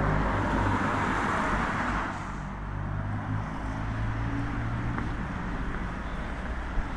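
A car passing on a wet street: tyre hiss with a low engine hum. The hiss fades away about two seconds in, and the hum lingers a few seconds more.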